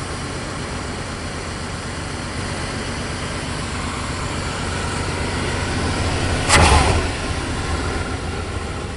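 1995 Chevy C2500's 5.7-litre 350 small-block V8, throttle-body injected, running steadily, warming up after a cold start. A single sudden thump comes about six and a half seconds in.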